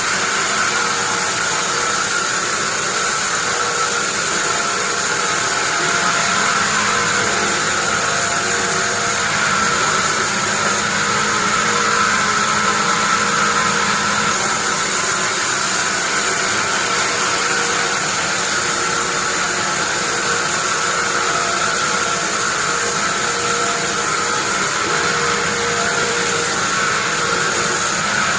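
Sawmill bandsaw running steadily, a constant high whine over a noisy hiss with no break or change.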